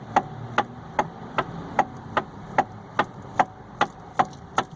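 Hyundai i30 electric power steering column clicking with the steering wheel's play, a regular tec-tec about two and a half knocks a second. Typical of a worn, broken or crumbled rubber flexible coupling (damper) between the electric assist motor and the column's reduction gear, which the mechanic thinks is most likely.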